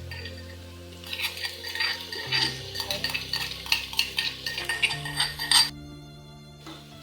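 Metal utensil clinking and scraping against cookware in quick, irregular strikes from about a second in until near the end, over soft background music.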